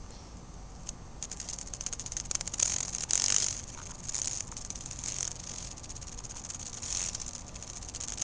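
A female cicada's wings buzzing in short, irregular flurries as it struggles to fly while being held. The sound is a dry, fluttering rattle of wingbeats, not the song that only the males make. It is loudest for about a second a few seconds in.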